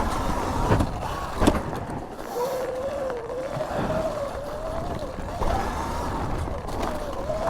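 2019 Sur-Ron electric dirt bike's motor whining, its pitch rising and falling with the throttle as it rides the trail, over a rough rumble of wind and tyres. Two sharp knocks come in the first couple of seconds.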